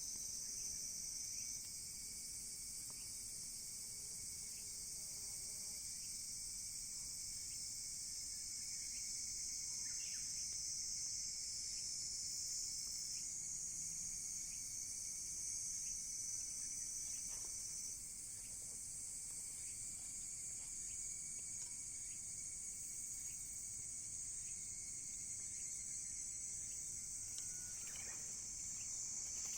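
Steady, high-pitched chorus of insects such as crickets, with a few faint crackles from a wood fire.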